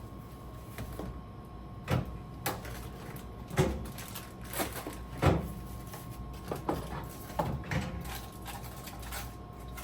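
Food containers and packages being handled and moved about inside a refrigerator: irregular knocks and clatters, about a dozen, over a faint steady hum.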